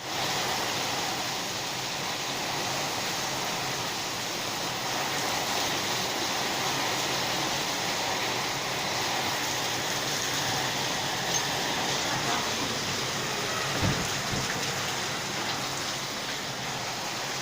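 Heavy rain pouring in a storm: a steady, even hiss of downpour. A short dull low thump about fourteen seconds in.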